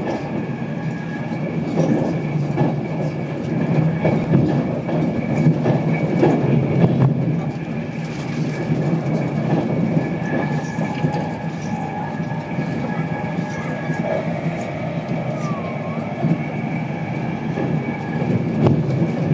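Inside a moving InterCity 225 passenger coach: the steady low rumble of wheels on rail, with a faint steady high whine. Occasional clicks come as the wheels run over the pointwork, more of them near the end.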